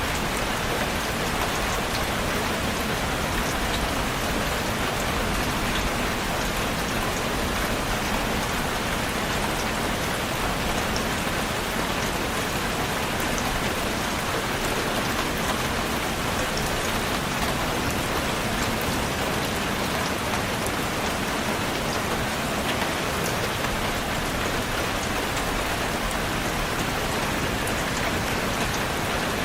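Steady heavy rain falling, a constant hiss dense with the ticks of drops hitting a surface.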